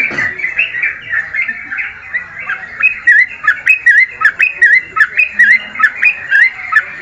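Songbird calling, a fast run of short looping chirps that becomes louder and more evenly spaced, about three notes a second, from around three seconds in.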